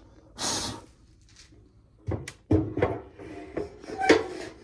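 Ears of corn being handled: a brief rustle, then from about two seconds in a run of irregular knocks and clatters as cobs knock together and against their container.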